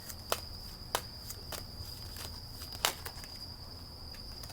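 A cricket trilling steadily and high-pitched, with a few light, irregular clicks over it.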